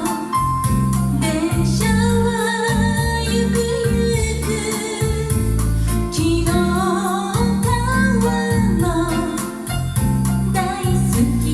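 Bossa nova song played live: a singer's vocal line over keyboard accompaniment with a steady bass.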